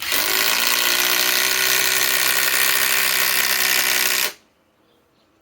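SKIL PWR CORE 20 cordless impact driver running under load, hammering steadily as it drives a 4-inch TimberLOK structural screw, then stopping abruptly about four seconds in.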